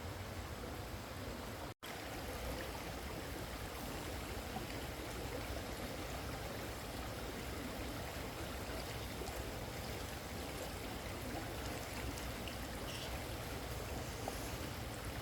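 Flowing water rushing steadily, broken by a brief drop to silence about two seconds in.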